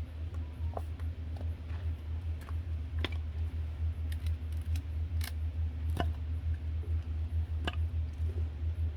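Coffee beans cracking in a roaster: scattered sharp pops at irregular intervals over a steady low hum.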